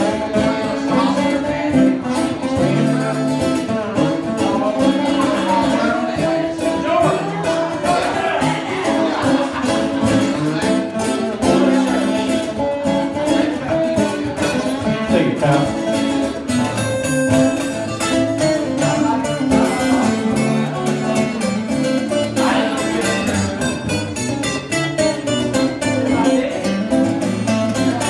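Instrumental break of a live country song on acoustic guitars: quick picked lead notes over a steady strummed rhythm and a repeating low line.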